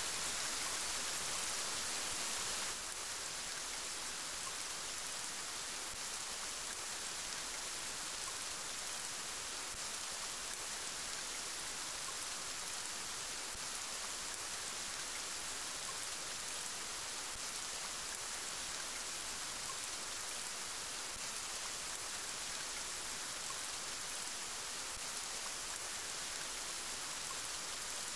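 Steady rain falling, an even hiss of drops. About three seconds in it changes to a slightly quieter, less bright rain sound.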